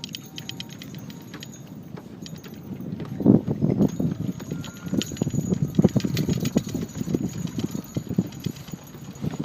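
Irregular dull knocks and thumps, starting about three seconds in, over a faint low rumble: things bumping around on the floor of a fishing boat.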